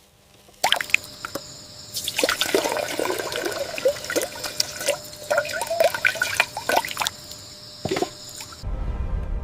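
Water splashing and gurgling, with many short bubbling drips, busiest in the middle; it cuts off suddenly near the end and gives way to a low rumble.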